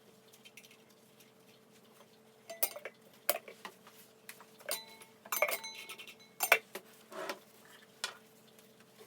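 Small hard objects being handled and set down, making a run of clinks and knocks, a few of them ringing briefly, starting about two and a half seconds in.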